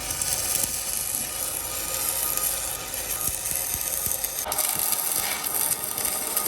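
Metalworking on a truck wheel rim: a steady rough scraping, rattling noise, with a brief rising tone about four and a half seconds in.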